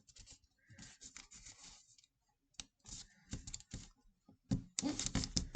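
A square sheet of origami paper being folded and creased by hand: scattered crinkles and rustles that grow denser and louder near the end.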